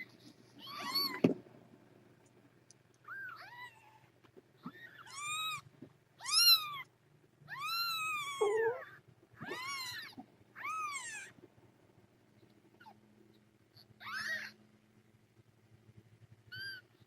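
Newborn kittens, under a week old, mewing: about nine short, high-pitched cries at irregular intervals, each rising then falling in pitch. One longer cry comes about eight seconds in.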